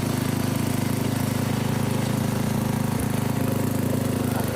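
The Briggs & Stratton engine of a 1997 Mastercraft 12.5/38 lawn tractor running at a steady speed while the tractor is test-driven. There is a single brief knock about three seconds in.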